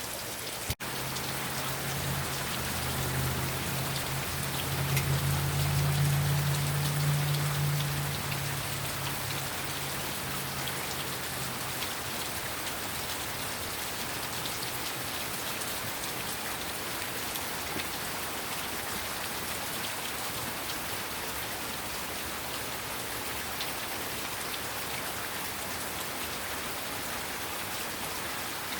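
Heavy rain falling steadily: a dense hiss with scattered drop ticks. A low hum swells in over the first few seconds and fades away by about twelve seconds in. The sound cuts out for an instant near the start.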